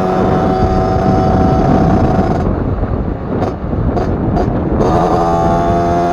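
Beta RR 50's 50cc two-stroke engine with an Arrow exhaust running at a steady high pitch. About two and a half seconds in, the note breaks into a rough, unsteady stretch, then settles back to the same steady pitch near the end.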